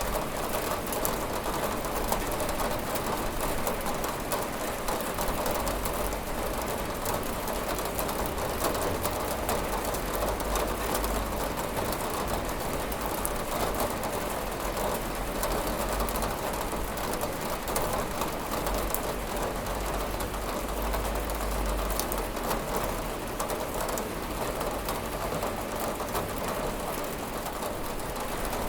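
Steady rain falling on window glass: an even hiss scattered with many small drop ticks, over a low rumble.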